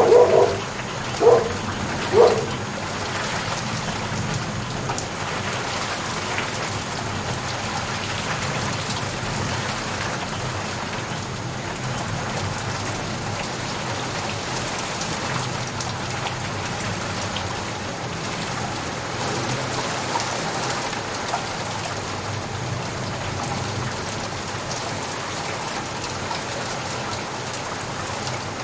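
Steady rain falling. Three short, louder sounds come in the first couple of seconds.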